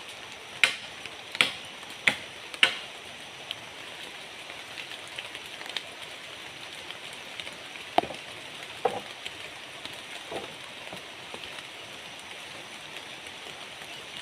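Steady rain hiss, with a run of sharp, evenly spaced knocks in the first three seconds and a few scattered knocks later on.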